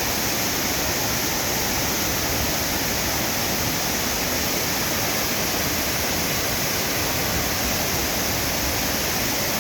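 Waterfall cascading over rocks: a loud, steady, unbroken rush of falling water.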